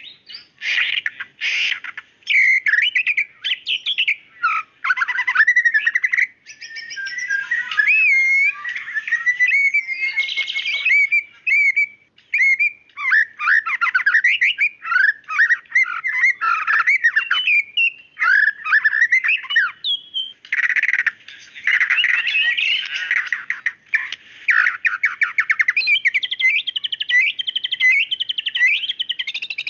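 White-rumped shama singing a loud, rich song of rapid trills, sharp notes and gliding whistles, phrase after phrase with only brief pauses.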